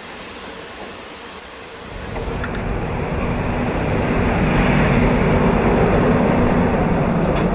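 A train running past: a softer rolling noise at first, then about two seconds in the heavy rumble and hum of an FS E.444 electric locomotive passing close swells up and holds.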